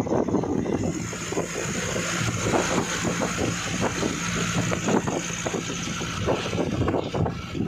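A vehicle's engine running steadily on the move, with wind rushing over the microphone.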